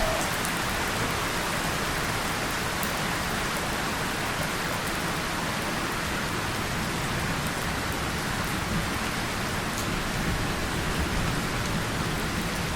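Steady rain falling on a tin surface and leaves, with scattered single drops ticking through it.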